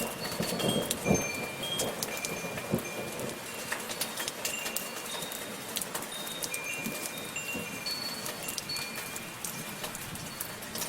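Rain falling, a steady hiss with the patter of drops, while wind chimes ring now and then in short, scattered high tones. A few heavier low thuds come in the first two seconds.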